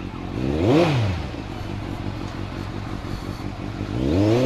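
Motorcycle engine idling, revved twice with quick throttle blips; each blip rises and falls in pitch over about a second.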